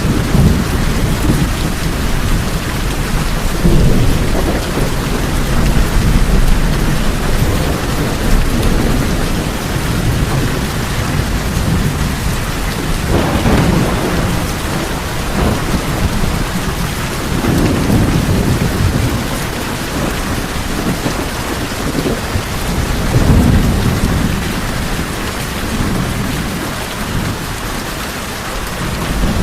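Steady heavy rain falling on tin roofs, with low thunder rumbling and swelling several times.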